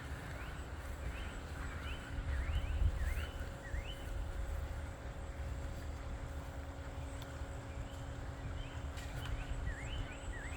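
A small songbird giving short rising chirps, a quick run of about five in the first few seconds and a few more near the end, over a low rumble.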